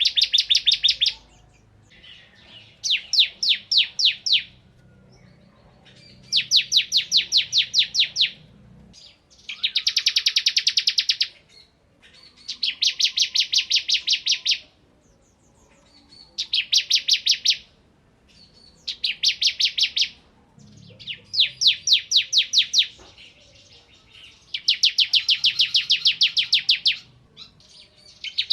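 Ciblek kristal (bar-winged prinia) singing in repeated bursts of fast, machine-gun-like trills. Each burst is a rapid run of sharp, high notes lasting one to two and a half seconds, with short pauses between bursts.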